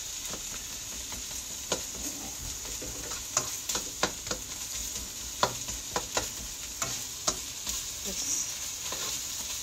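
Diced ham and onions sizzling in a nonstick wok, with a steady frying hiss, while a plastic spatula stirs them and scrapes and taps against the pan in irregular clicks.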